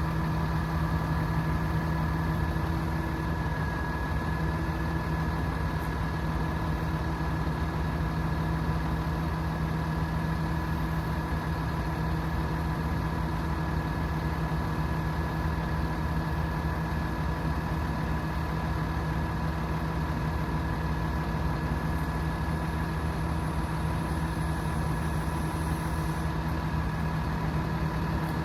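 Hino 338 truck's 7.6-litre turbo diesel engine idling steadily, with a constant high whine running over the engine note.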